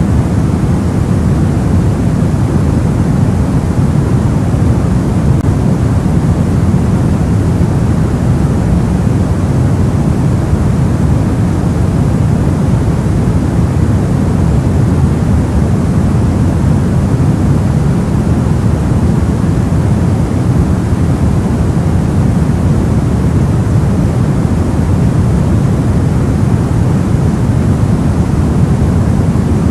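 Steady, soft white noise for sleep, weighted toward the low end, holding even throughout with no changes.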